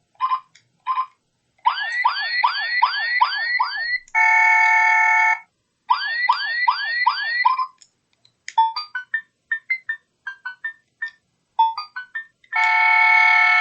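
A small electronic sound-effects toy playing synthetic sounds. It gives a few short beeps, then a run of quick rising swoops, about two or three a second, ending in a steady buzzing tone. The swoops and the buzz come again, with a run of short beeps at changing pitches between them.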